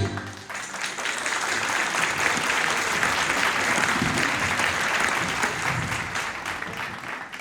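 Audience applauding after a choir's song, a steady spell of clapping that fades toward the end.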